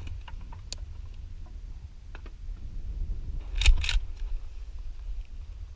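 Low wind rumble on the microphone, with a few light clicks and a sharp double click about three and a half seconds in, like the camera being handled.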